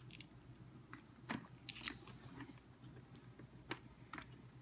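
Faint, scattered small clicks and light handling noise from a plastic action-camera helmet mount being fitted and checked by hand.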